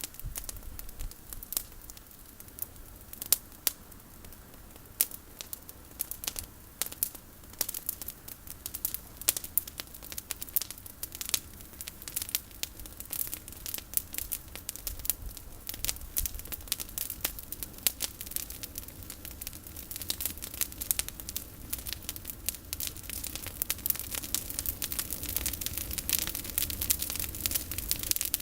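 Campfire of olive-tree prunings crackling, with irregular sharp pops and snaps that get busier and louder toward the end.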